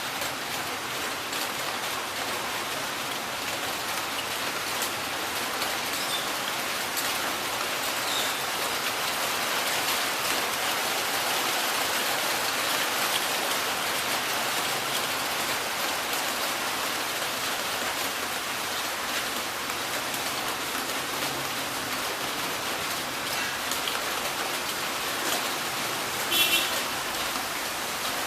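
Heavy rain falling steadily, an even hiss of drops on surfaces. Near the end a short high-pitched sound cuts briefly through the rain.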